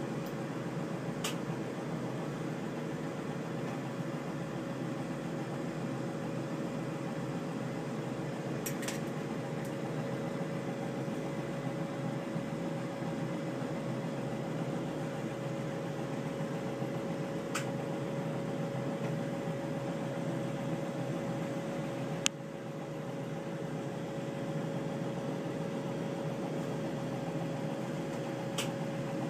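Steady hiss and hum of running workshop equipment, with one constant tone and a few faint ticks, plus one sharp click about 22 seconds in.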